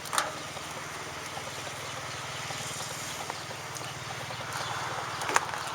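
A small engine idling with a steady low hum, with a few faint clicks and knocks.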